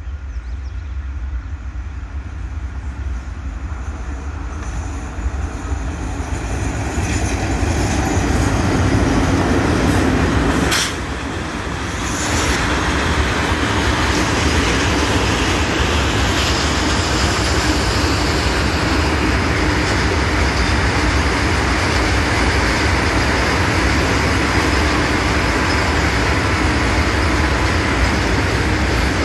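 Coal goods train passing: the approaching train grows louder over the first ten seconds, drops briefly just before eleven seconds in, then its long line of open coal wagons rolls steadily past with an even wheel-on-rail rumble.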